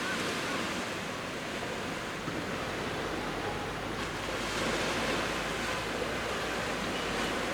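Sea waves washing onto a beach, a steady rush of surf that swells a little about halfway through.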